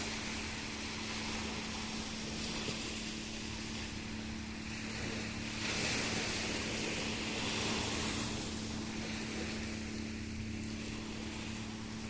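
Steady low motor hum, like a boat engine, under rushing wind-and-water noise that swells twice, strongest about six to eight seconds in.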